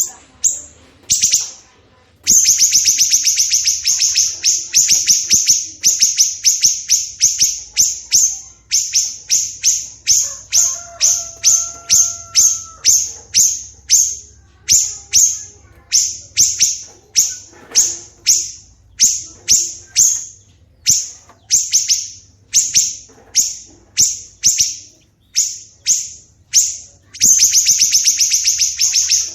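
Songbird calling in a long run of sharp, high-pitched notes repeated about two to three times a second, the rapid 'nembak' delivery used in masteran song-training recordings.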